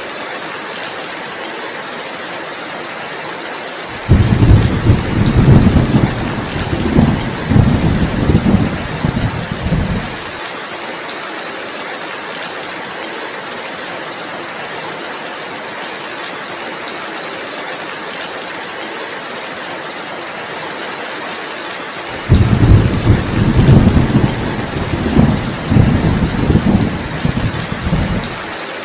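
Heavy rain falling steadily, a constant hiss, with two rolls of thunder of about six seconds each, a few seconds in and again near the end, each starting and stopping abruptly.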